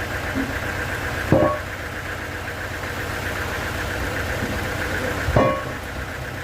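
Sawmill machinery running with a steady engine drone, broken by two sharp, loud knocks with a short metallic ring, about a second in and again about four seconds later.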